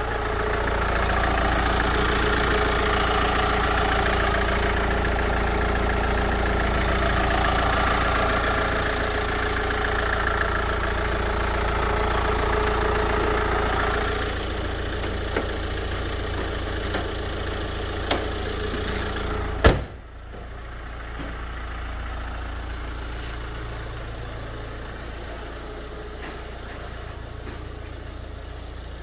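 Hyundai Tucson turbo-diesel engine idling steadily with a diesel clatter. About two-thirds of the way through there is one sharp knock, after which the idle sounds quieter.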